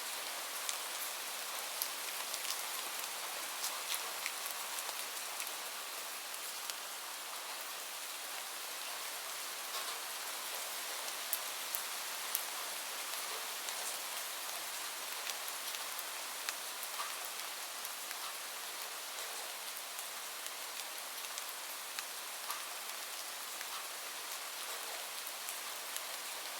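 Gentle rain falling steadily, a soft even hiss, with scattered sharp pops and ticks from a crackling wood fire in a fireplace.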